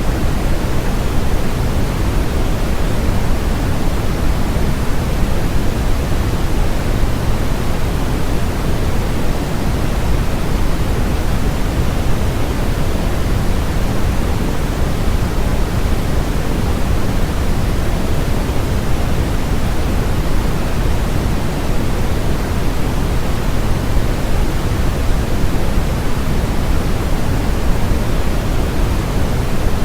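Steady synthetic noise, even and unchanging, heavier in the bass than the treble, like pink noise.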